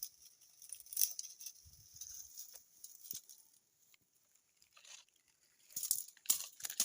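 Irregular crunching and rustling with a quieter spell in the middle, then a cluster of sharp crackles near the end.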